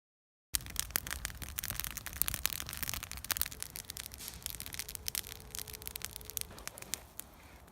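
Campfire crackling and snapping in dense, irregular clicks over a low rumble, starting abruptly about half a second in and easing off near the end.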